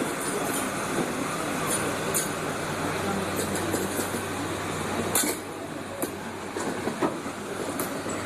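Train running along the track, a steady rumbling noise with scattered sharp clicks and clanks. About five seconds in, the noise drops slightly after a loud click.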